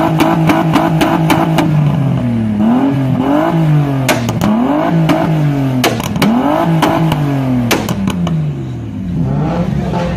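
VW Mk1 Golf engine blipped repeatedly from about two seconds in, its pitch rising and falling roughly once a second, with a few sharp cracks between some of the revs.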